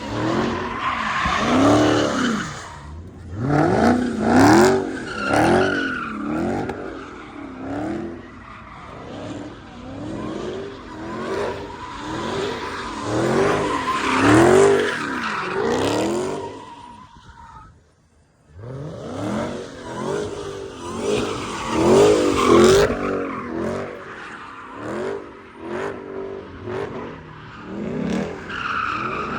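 Car engine revving up and down over and over, about once a second, with tyres squealing against the pavement. The sound breaks off briefly about two-thirds of the way through, then the revving and squealing resume.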